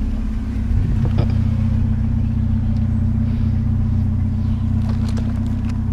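A car engine idling steadily, with a faint knock about a second in and another near the end.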